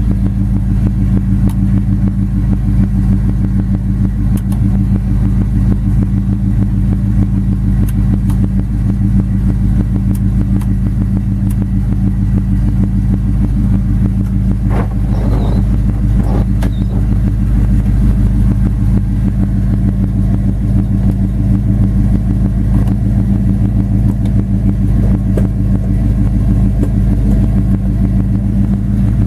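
1971 Oldsmobile Cutlass's 455 cubic-inch V8 idling steadily, with two brief faint sounds about halfway through.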